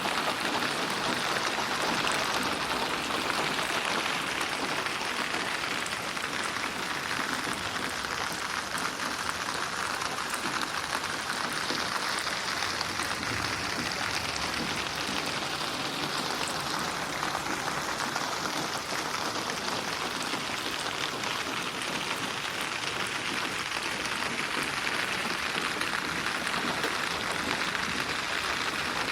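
Steady rain falling, an even dense patter with no breaks, processed as 8D audio so that it sweeps around the listener.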